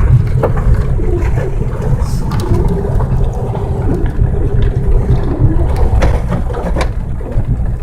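Chevrolet Cavalier driving on a snow-covered dirt road, heard from inside the cabin: a loud, steady low rumble of engine and tyres, with a few sharp knocks and a faint whine in the middle.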